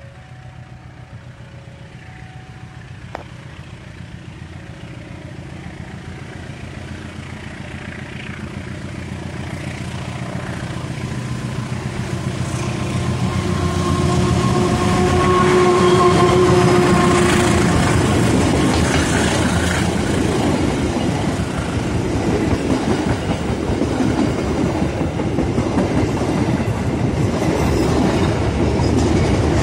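Indonesian KAI diesel locomotive with a passenger train approaching and passing close by: the engine's low drone grows steadily louder, the horn sounds one long chord a little before halfway, and then the wheels of the coaches clatter and rattle over the rails as they go past.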